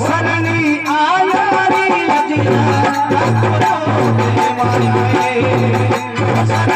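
Rajasthani folk devotional bhajan: a male voice sings a melodic line over steady rhythmic accompaniment with a rattling percussion. The voice drops out about two seconds in, and the instruments carry on with a regular beat.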